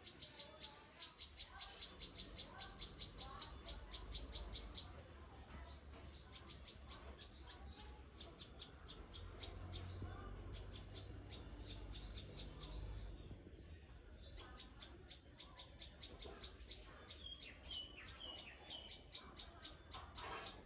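Tailorbirds chirping: rapid series of short, high chirps, about five a second, broken by a few brief pauses.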